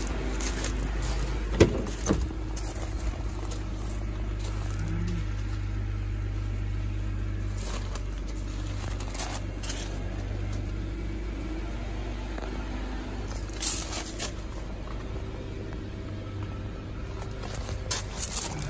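BMW E46 M3's 3.2-litre S54 straight-six idling steadily while it warms up from a cold start. A sharp click about one and a half seconds in, as the car door is opened, stands out over the idle, and a few lighter clicks follow later.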